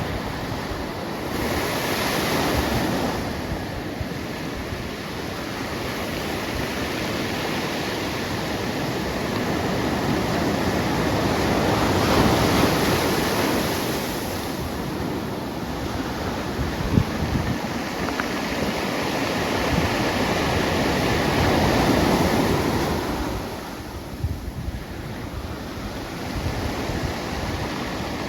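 Pacific Ocean surf: a steady rush of breaking waves that swells louder about every ten seconds as sets roll in.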